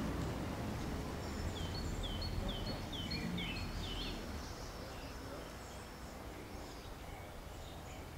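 A small bird singing a quick run of about seven short, high, downward-slurred notes, with a few fainter high notes after, over a steady low outdoor rumble.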